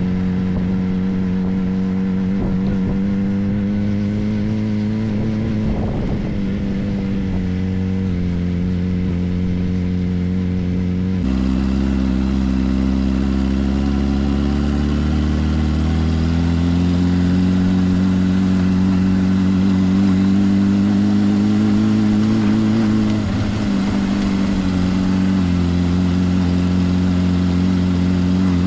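Suzuki GSR 400's inline-four engine running through a Yoshimura exhaust at steady cruising revs. The engine note changes suddenly about eleven seconds in, climbs gradually over the next several seconds, and dips briefly shortly before the end.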